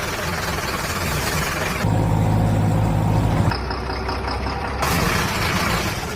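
Engine sounds in several spliced segments, running steadily and changing abruptly about two, three and a half, and five seconds in.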